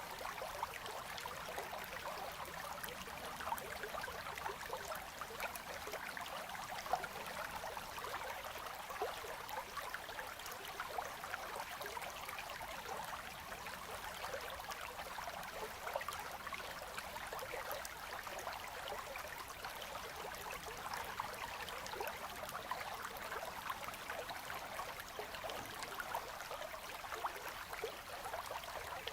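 River current flowing and gurgling past ice, a steady babble with many small splashes and trickles.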